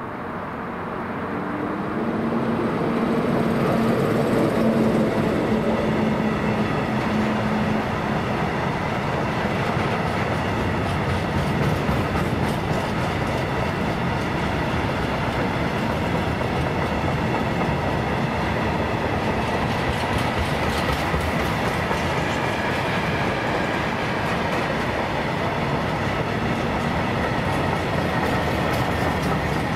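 A train passing on the line. It gets louder over the first few seconds, then runs past steadily with wheels rolling on the rails, and it is still going at the end.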